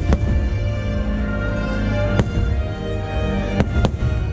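Fireworks-show soundtrack music with firework shells bursting over it: a pair of sharp bangs at the start, one about two seconds in, and two close together near the end.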